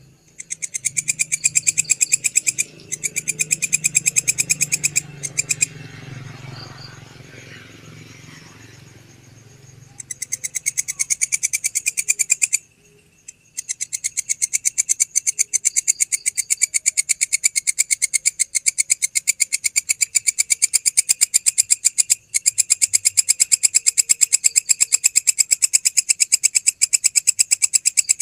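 A grasshopper-type insect (belalang) calling at night: a loud, shrill, rapid and very even pulsed chirring that breaks off for short pauses a few times. Between about five and ten seconds in, the call drops away while a low rumble rises and fades.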